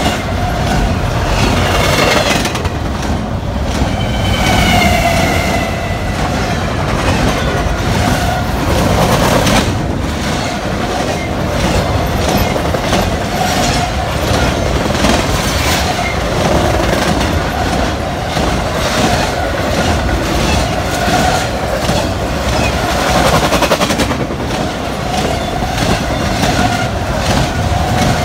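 Intermodal freight train of double-stack container cars and trailer-carrying flatcars rolling past at close range: a steady rumble and clatter of steel wheels on the rails.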